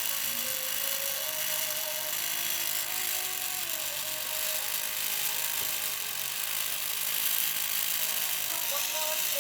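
Small dynamo motor of a homemade tattoo machine running steadily, with faint music and singing underneath.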